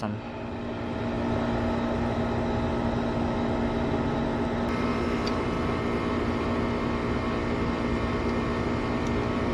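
Electric motor of an animated zombie ground-breaker prop running with a steady, even hum.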